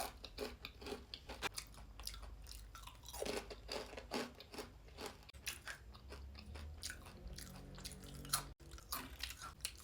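Crispy dried beetroot slice being crunched and chewed close to the microphone: quick irregular crunches, thick at first and thinning out as the chewing goes on.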